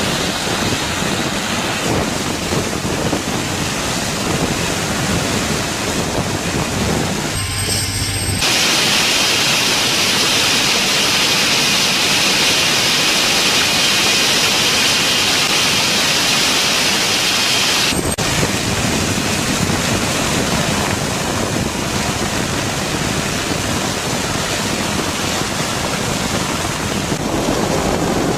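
Steady, loud rushing noise like wind or static hiss, with no voices or clear engine tone. From about 8 seconds in to about 18 seconds in it turns brighter and hissier, then drops back.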